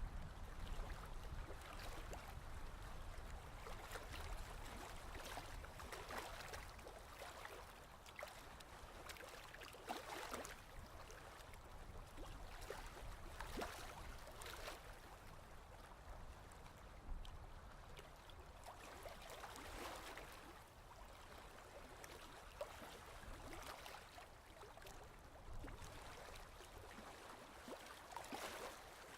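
Ocean waves washing in, faint, the surf swelling and easing every few seconds.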